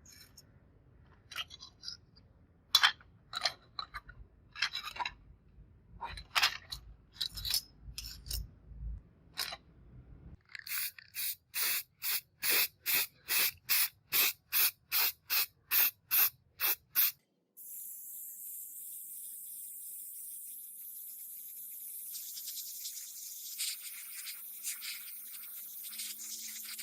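Irregular short scraping strokes, then an even run of quick strokes about two a second. About two thirds of the way in, a steady spray hiss starts and runs on.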